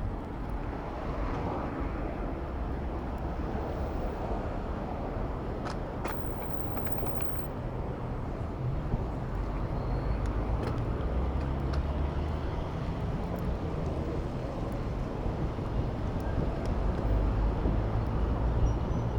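City street traffic heard from a moving bicycle: a steady rumble and hiss of vehicles, with a few faint ticks, getting a little louder near the end.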